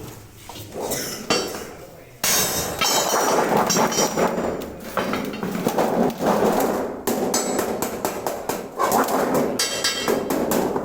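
Metal being hammered, a quiet start and then, from about two seconds in, a loud, dense run of rapid strikes.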